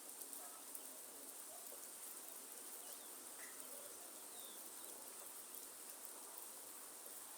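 Faint, steady rainforest ambience: a soft rain hiss under a high, steady insect drone, with a few faint bird chirps scattered through.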